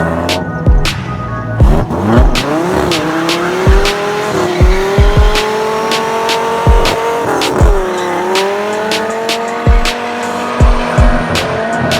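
Twin-turbo Dodge Viper V10 doing a burnout: the engine revs up and is held high with the tyres squealing, its pitch dipping briefly twice. Music with a steady thumping beat plays over it.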